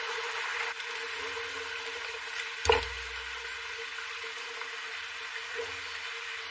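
A steady, even hiss with a faint hum under it, broken once nearly three seconds in by a single sharp knock.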